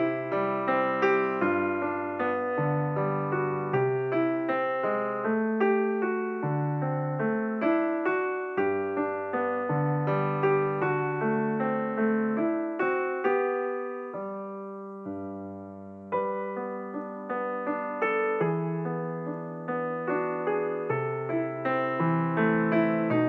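Background piano music: a slow melody of struck notes over held bass notes, softening briefly about two-thirds of the way through before picking up again.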